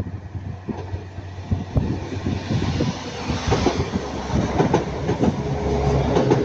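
Northern Class 195 diesel multiple unit passing close by, its wheels clicking irregularly over the rail joints with a low engine hum underneath. It grows louder through the pass, and a steady whine joins it near the end.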